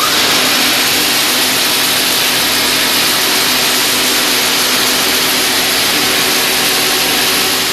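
Band sawmill running, its blade and engine making a loud, steady rushing noise with a low hum beneath.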